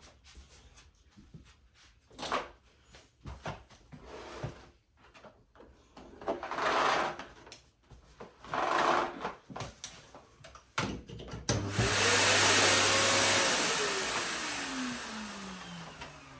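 Clicks and knocks of the Philips FC9351 bagless vacuum cleaner's parts being handled, then the cleaner is switched on and its motor starts with a loud rush of air. About two seconds later it is switched off and the motor winds down, a whine falling steadily in pitch as the rush fades.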